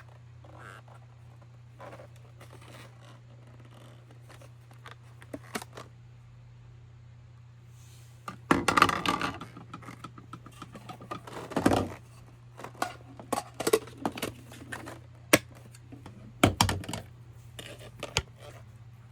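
Handling sounds from a portable car cleaner and its packaging: scattered clicks and knocks with short bursts of rustling, busiest in the second half, over a steady low hum.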